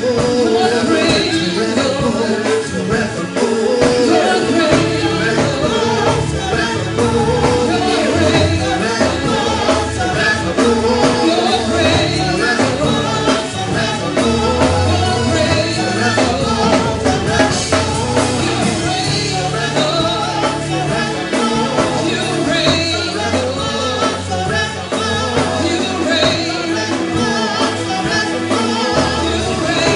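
Live worship music: singing over a full band with drums and bass, playing steadily.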